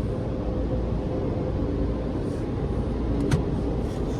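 Steady low rumble of Hanna car-wash dryer blowers, heard from inside the car, with a faint steady hum and one short click about three seconds in.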